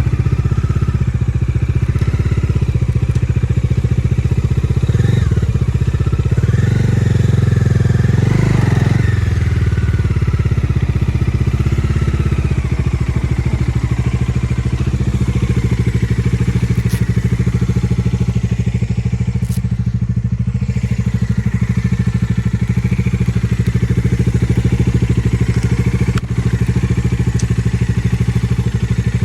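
Bajaj Dominar 250's single-cylinder engine running steadily, with the engine note rising and falling a few times between about five and nine seconds in.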